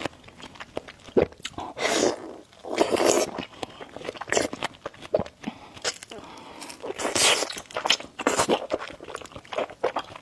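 A person biting and chewing food, a run of short irregular noisy bursts and clicks.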